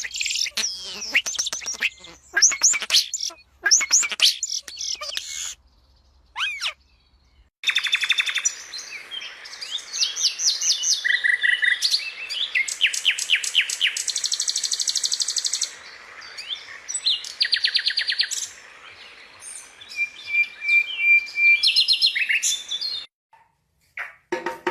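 Songbirds chirping and trilling in rapid runs of high, quick notes, with a couple of abrupt breaks into silence between passages.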